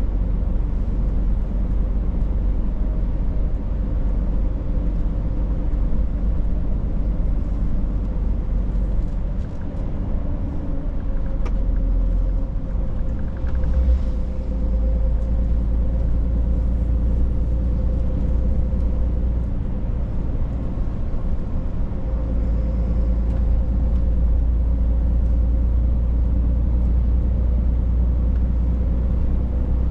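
Scania truck driving, its engine and the road making a steady low rumble.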